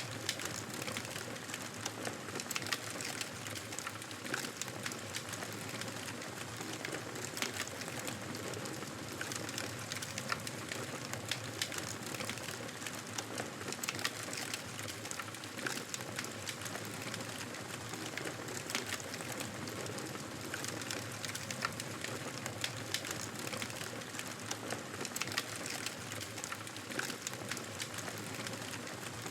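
Wood fire burning in a fireplace, a steady rush of flames with frequent small crackles and pops scattered throughout.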